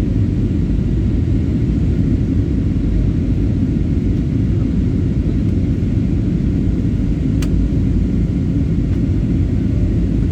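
Airliner cabin noise in flight: a steady low rumble of the jet engines and airflow heard from inside the passenger cabin, with one brief click about seven seconds in.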